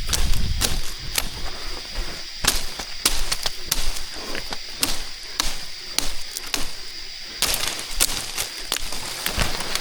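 Irregular sharp cracks and knocks, sometimes several a second, over a steady high-pitched drone.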